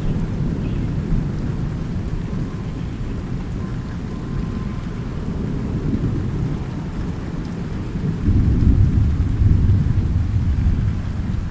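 Thunderstorm: low, continuous thunder rumbling under steady rain, swelling louder about eight seconds in.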